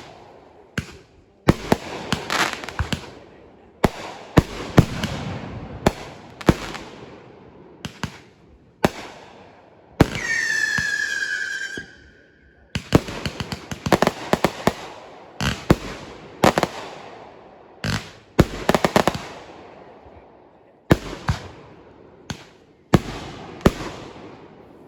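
Fireworks going off in a rapid series of sharp bangs, each trailing off as it fades. About ten seconds in, a whistling firework sounds for about two seconds, its pitch falling slightly before it cuts off.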